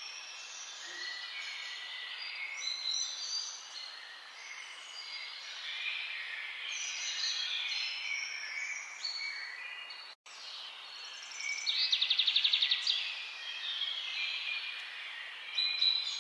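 Chorus of many wild birds calling and singing over one another, with a loud rapid trill of about ten notes a second shortly before the middle of the second half. The sound drops out completely for a split second just after ten seconds in.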